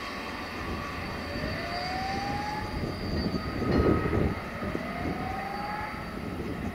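Train running through the station: a steady rolling rumble, with a rising whine that comes back about every three seconds and a louder surge a little under four seconds in.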